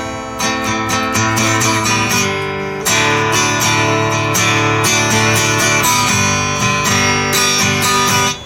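Acoustic guitar strumming chords through an instrumental break between sung verses, dropping away sharply near the end.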